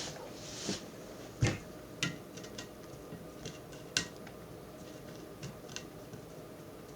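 Light clicks and knocks of small objects being handled and set down while a cookie is balanced on top of a water bottle. The loudest knock comes about a second and a half in, with a few more softer clicks after it.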